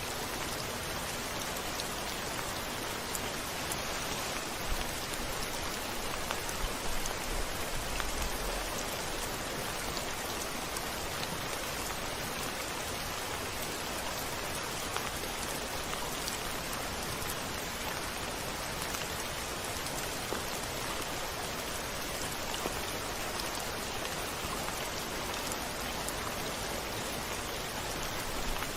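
Steady rain falling, with scattered sharp drop ticks. A short low rumble comes about seven to eight seconds in.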